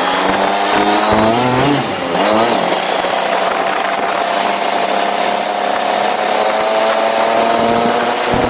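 Go-kart engine at high revs. Its pitch drops about a second in as the kart slows, then climbs again from about two seconds in and holds a steady high note, with a constant hiss underneath.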